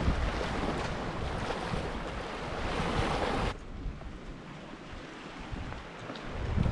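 Waves washing on the rocky Lake Superior shore, with wind rumbling on the microphone. About three and a half seconds in, the sound cuts abruptly to quieter surf.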